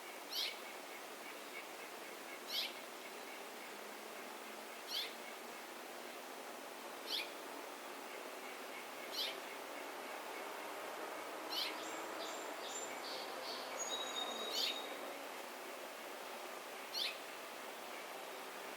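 A bird repeating a short, sharp call note about every two seconds, with another bird's brief series of high, clear notes about two-thirds of the way through.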